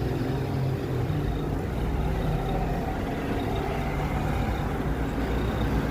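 Steady road traffic noise with a low rumble of wind on the microphone while cycling along a town street.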